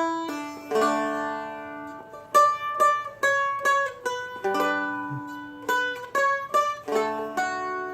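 Seagull Merlin M4 played as a slow melody of single picked notes, each left ringing, with a few strums mixed in.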